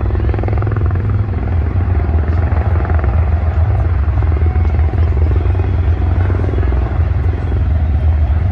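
Helicopter overhead: a steady, loud rotor rumble with rapid chopping pulses.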